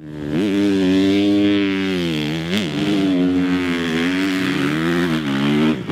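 Dirt bike engine running hard at high revs, its pitch briefly dropping and climbing back three times, like throttle blips or gear changes.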